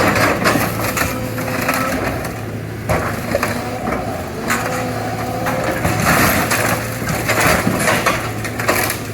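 A Cat 313 hydraulic excavator crushing an SUV body: metal crunching and creaking in repeated surges over the excavator's steady engine hum and a wavering hydraulic whine.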